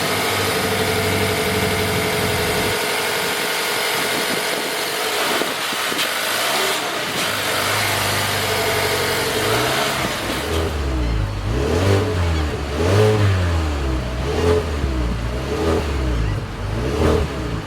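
2020 Mazda3's 2.5-litre four-cylinder engine running at a steady idle just after start-up, then revved in a series of short blips, pitch rising and falling about once a second, from about ten seconds in.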